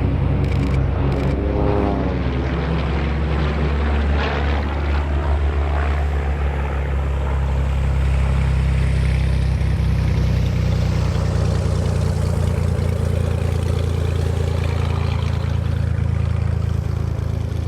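Propeller-driven aerobatic planes with piston engines running in flight, their engine note gliding in pitch as they pass by, over a steady low rumble.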